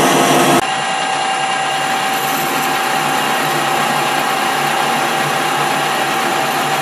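Metal lathe running steadily with a thin whine while a high-speed steel tool takes a light cut. About half a second in, the sound switches abruptly from a louder cut with a stronger, more rattly tone.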